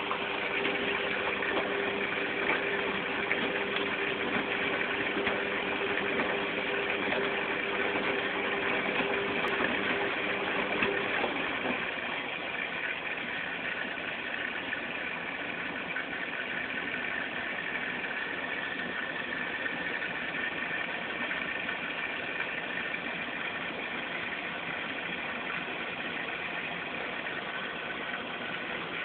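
Hajdu Energomat Komfort washing machine running steadily in its rinse cycle. A low hum cuts out about twelve seconds in and the running gets a little quieter.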